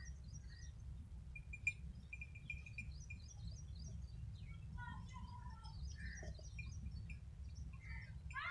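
Small birds chirping and twittering, with a quick run of repeated pips near the start, over a steady low rumble.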